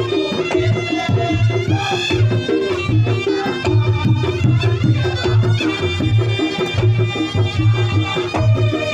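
A Reog Ponorogo gamelan playing a jathilan piece: a slompret (double-reed shawm) melody with sliding, bending notes over fast kendang hand-drum strokes and a steady low beat.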